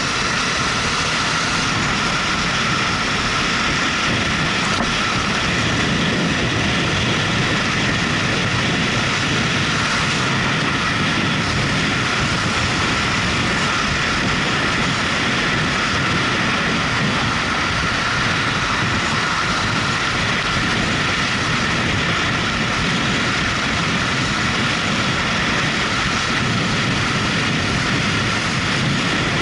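Motorcycle running at a steady cruising speed, its engine under a loud, even rush of wind and road noise that holds unchanged throughout.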